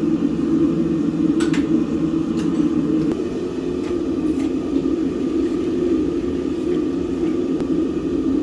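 A machine running steadily, with a few faint clicks over it.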